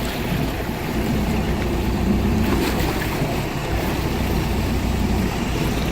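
Boat engine running steadily, a continuous low rumble with the wash of water and wind.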